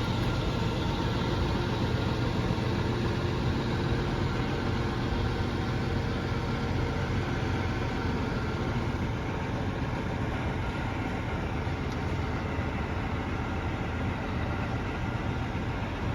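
Scania 124G truck's inline-six diesel engine running steadily at low revs, a little quieter in the second half.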